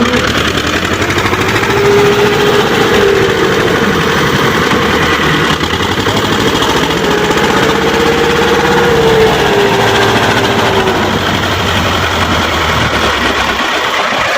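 HMT 2511 tractor's diesel engine running hard while the tractor is stuck in mud, its pitch rising and falling twice as it is worked.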